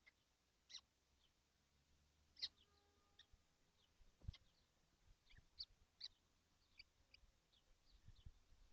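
Faint, scattered short bird chirps, with a couple of soft low knocks.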